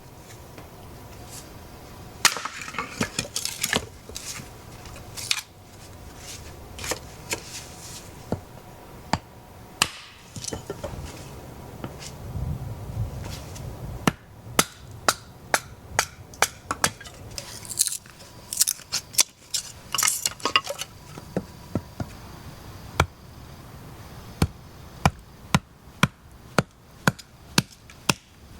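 Repeated sharp knocks, like chopping strokes: scattered at first, then quicker and more even, about two a second, from about halfway through.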